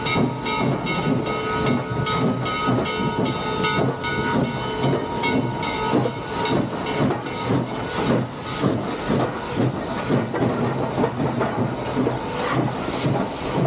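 Steam locomotive working with a rhythmic chuffing exhaust and hiss of steam, its steam whistle sounding a held chord that cuts off about six seconds in.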